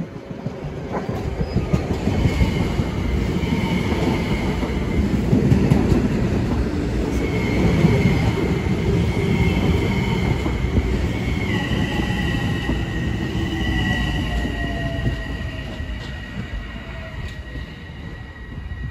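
Metro-North M7A electric multiple-unit train running past along the platform: a dense rumble of wheels on rail with high steady whines over it. About two-thirds of the way in, the whines drop in pitch as the train goes by. A lower tone then slides downward, and the sound fades as the train moves away.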